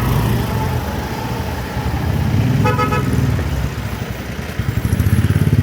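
Street traffic: a small motorcycle engine running close by, its low rumble growing louder and pulsing near the end, with a brief horn toot about two and a half seconds in.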